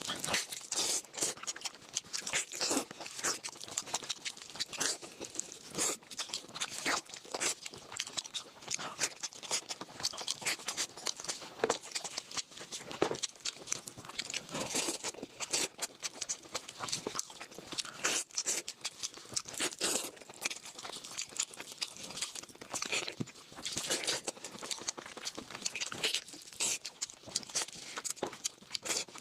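Close-miked eating: crunchy food being bitten and chewed, with dense, irregular crunching and crackling.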